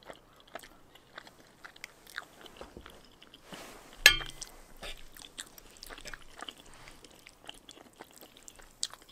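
Close-miked chewing and small wet mouth sounds of someone eating spicy noodles and rice cakes. About four seconds in, a stainless fork clinks sharply against the metal pan with a brief ring.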